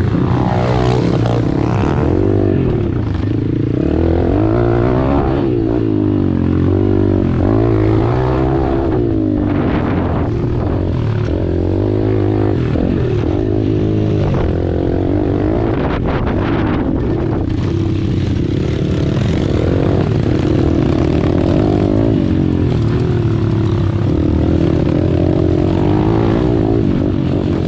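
Pit bike engine running hard on track, its pitch rising and falling over and over as the bike accelerates, shifts and slows.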